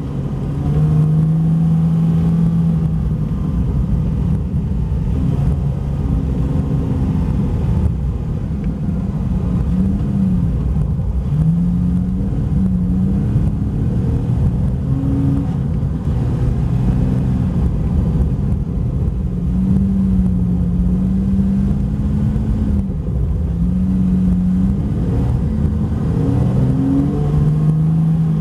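Porsche 911 Carrera 4S (991) flat-six engine repeatedly rising and falling in pitch as the throttle is worked through drifts on ice, over a steady low rumble from the studded tyres on the ice.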